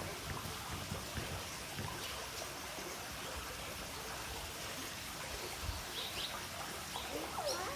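Sriti swiftlets twittering over a steady rushing hiss, with a few short, quick chirps clustering near the end.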